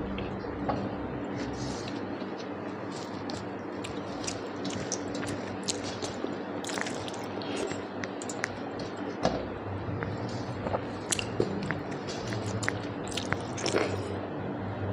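Close-up wet chewing and mouth smacking of someone eating soft rice with dal and fish curry, with many short clicks and squishes scattered through.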